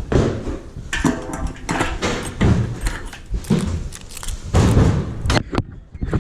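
Irregular knocks, thumps and clattering as metal parts and other objects are handled and moved about.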